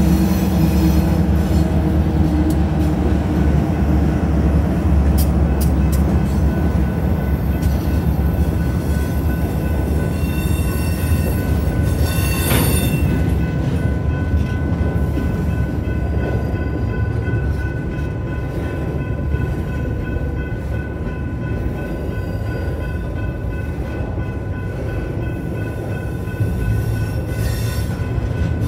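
BNSF freight train passing over a grade crossing. A diesel locomotive's engine runs loud in the first few seconds, then gives way to the steady rolling and clatter of steel wheels on rail as freight cars go by, with a brief wheel squeal about twelve seconds in. The crossing's GS Type 3 electronic bell rings throughout.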